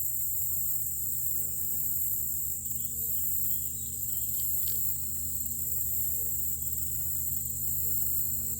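Steady high-pitched chorus of insects, with a steady low hum underneath and a few faint ticks.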